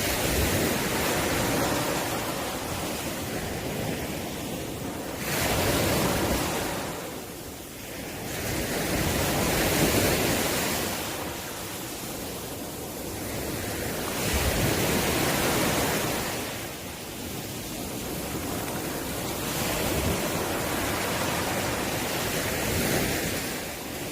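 Ocean waves breaking and washing on the shore, the surf swelling and easing every four to five seconds.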